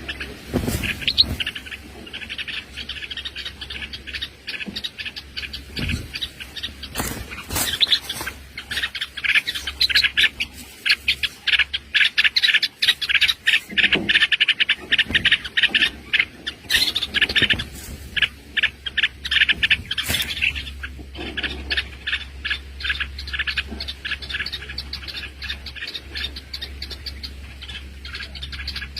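Small birds chirping rapidly and without pause, a dense run of short high calls, typical of nestlings and their parents calling in distress as a snake raids the nest. A few sharp knocks stand out among the chirps.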